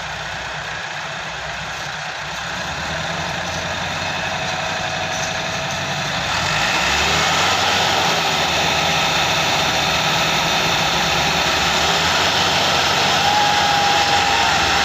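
Massey Ferguson 385 4WD tractor's four-cylinder diesel engine working hard while pulling a heavily loaded sugarcane trolley; it gets louder about two seconds in and again about six seconds in, then holds steady.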